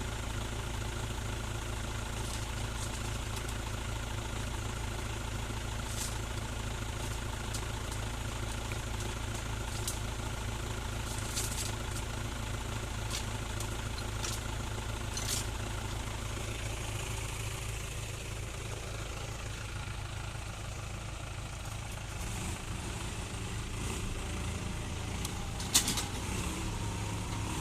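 Vehicle engine idling steadily at low speed, with a few light clicks scattered through and one sharp knock near the end.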